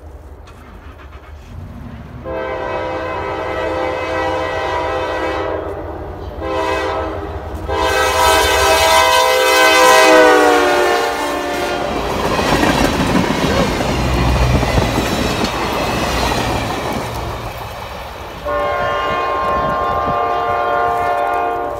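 NYSW freight train's diesel locomotive blowing its horn in three blasts, a short one between two long ones, as it closes on the crossing; the horn's pitch drops as it goes by. Freight cars then rumble and clatter past over the rails, and near the end a horn sounds again in one steady blast.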